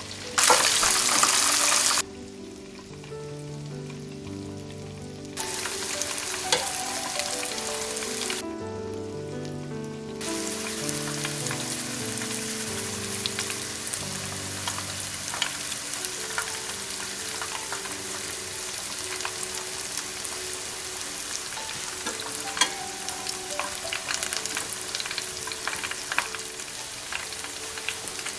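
Chicken sizzling and crackling as it fries in hot oil in a pan, coming and going in separate stretches, loudest in a short burst near the start. Light background music plays throughout.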